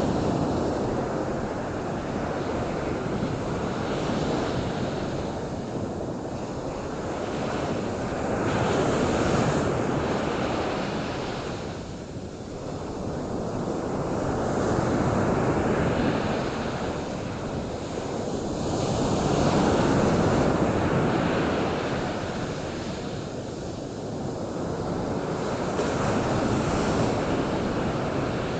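Ocean surf: waves breaking and washing ashore, the rush swelling and fading every several seconds.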